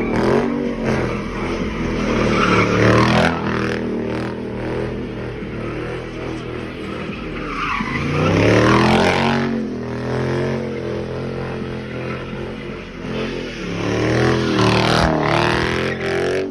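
Car engine revving hard in repeated surges, its pitch rising and falling, over a steady hiss of spinning tyres: a burnout.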